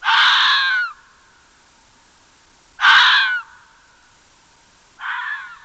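Three loud, harsh animal calls, each under a second long and spaced about two and a half seconds apart, the last one softer.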